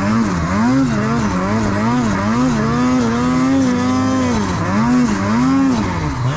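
Snowmobile engine revving up and down over and over, its pitch rising and falling about twice a second, held high for about a second midway.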